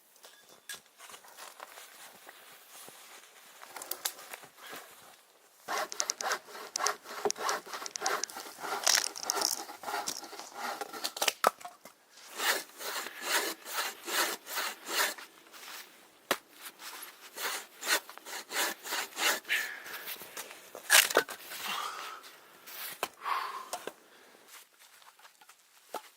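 Hand saw cutting through wood in quick back-and-forth strokes, starting about six seconds in, pausing briefly near the middle and stopping near the end.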